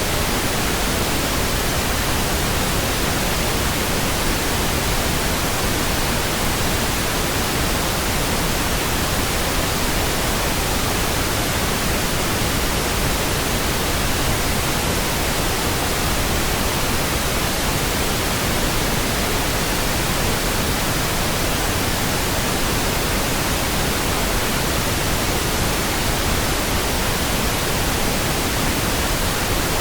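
Steady, even pink noise: a smooth, unchanging hiss spread across all pitches, with no tones or sudden sounds.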